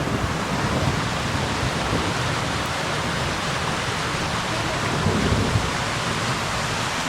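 Steady rushing noise of a snowstorm, with wind gusting on the microphone as a shifting low rumble.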